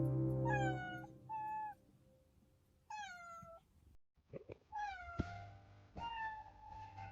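Kitten meowing repeatedly: short, high-pitched meows that fall in pitch, about half a dozen over the stretch, the last ones fainter.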